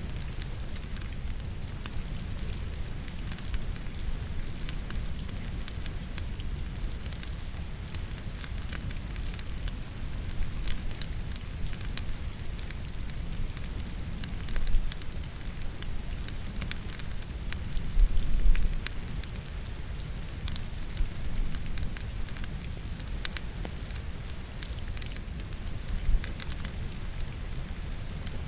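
Wood fire in a fireplace, crackling and popping with many sharp snaps, over a steady wash of rain. A couple of louder low thumps stand out about halfway through.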